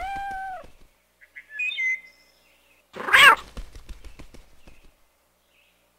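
Cartoon sound effects: a cat meows once, a bird chirps a few times, and about three seconds in a loud, harsh cat screech breaks out, followed by a rattling clatter that dies away.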